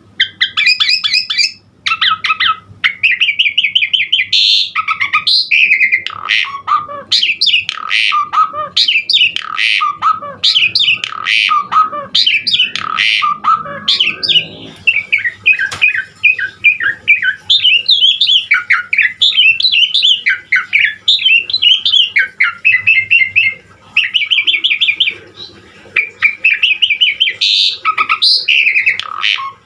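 Pied starling (jalak suren) in full song: a long, varied run of chattering, whistled and harsh squawking phrases, almost without pause, with a few short breaks. A faint steady hum lies underneath.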